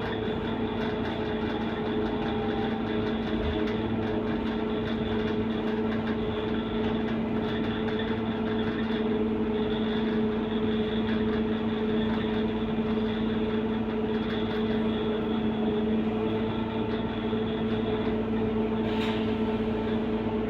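Scania K230UB bus's five-cylinder diesel engine idling, a steady hum with an even whine that holds one pitch.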